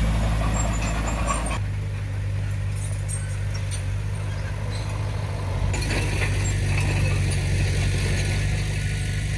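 Engine of heavy earthmoving machinery running steadily with a low drone and faint high squeaks, its sound changing abruptly twice.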